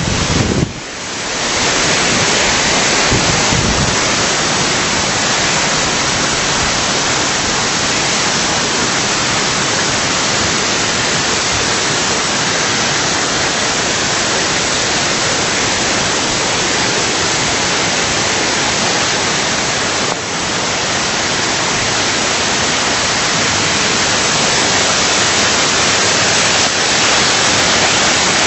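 Artificial waterfall: a loud, steady rush of falling water.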